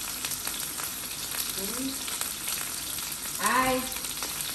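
Chicken frying in oil in a pan, a steady sizzle with fine crackles. A brief voice sound cuts in about three and a half seconds in.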